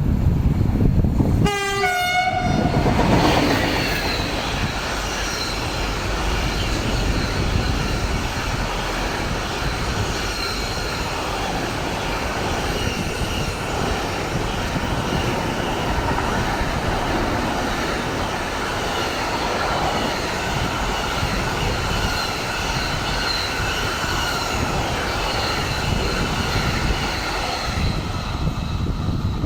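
Container freight train passing. Its horn sounds once, briefly, about two seconds in. Then the wagons roll by with a steady rumble and steady high tones from the wheels.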